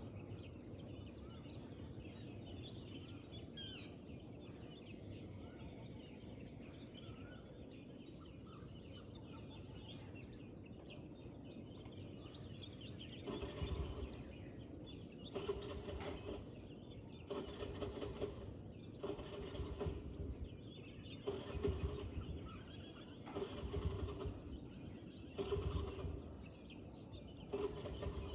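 Forest ambience: faint scattered birdsong over a steady high tone, with one quick trilled whistle a few seconds in. From about halfway, a short, rough, low sound repeats every one and a half to two seconds and is the loudest thing heard.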